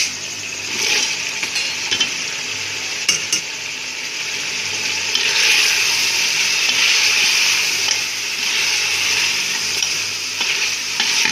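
Sliced green bell peppers added to a pot of mutton curry frying in its masala and stirred in with a metal spoon: steady sizzling, louder partway through as the peppers are turned over, with a few clicks of the spoon against the pot.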